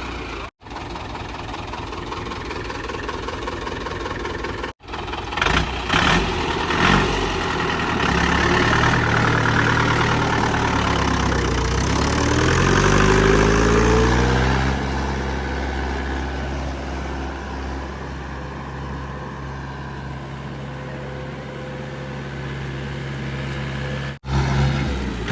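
Mahindra 575 tractor's diesel engine running, revving up with its pitch rising over a few seconds, then holding at a steady high speed.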